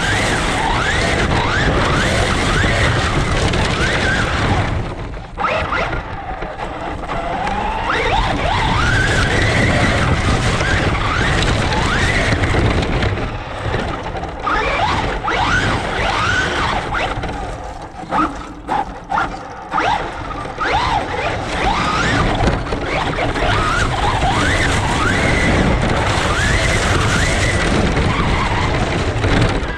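Radio-controlled truck running hard on sand: its motor whines up and down over and over as it accelerates and backs off, under a steady rush of tyre and wind noise. It drops away briefly about five seconds in, and a few sharp knocks come a little after the halfway point.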